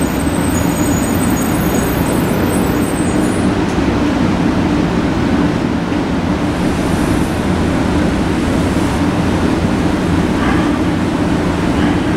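A 500 series Shinkansen standing at a platform, its onboard equipment giving a steady hum over an even rushing noise.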